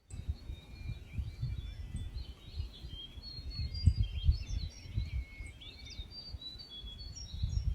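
Several small birds chirping and singing in short, repeated phrases, over an uneven low rumble of wind buffeting the microphone, which swells loudest about halfway through.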